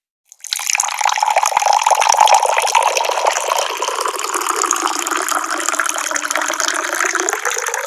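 Water pouring from a tap in a steady rush. It starts abruptly about half a second in, after a brief moment of silence.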